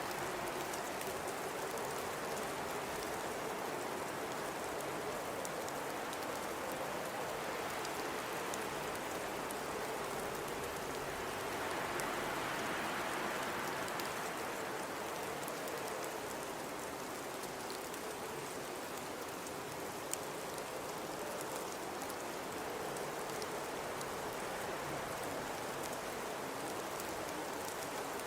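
Blizzard ambience: steady storm wind rushing, with a faint low howl and scattered fine ticks of driven snow. The wind swells about halfway through, then eases.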